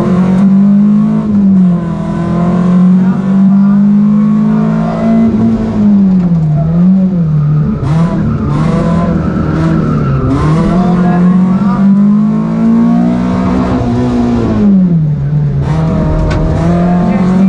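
Fiat Seicento rally car's engine heard from inside the cabin at full effort, its revs held high for several seconds at a time and dropping sharply about three times before climbing again.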